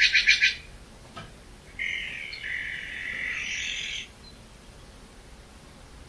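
Bird calls: a quick run of about five sharp, high notes, then about two seconds later a longer, steadier call lasting about two seconds.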